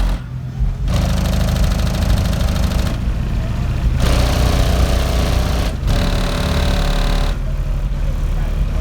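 Six Sundown Audio X 12-inch subwoofers on three Twisted Sound 3.5k amplifiers hitting low bass notes at high level, with the car's body and trim rattling. The bass holds throughout, while the rattle drops out briefly several times and quietens near the end.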